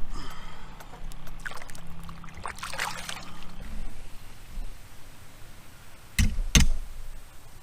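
Water splashing and trickling beside a canoe, over a low steady hum, then two heavy knocks about half a second apart near the end, the loudest sounds.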